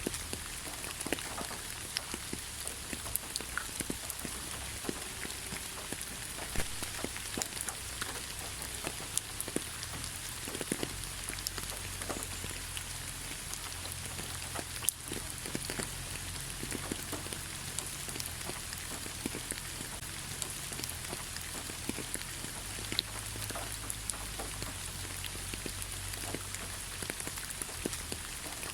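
Steady rain falling in a pine forest, a constant hiss with many scattered drops ticking close by.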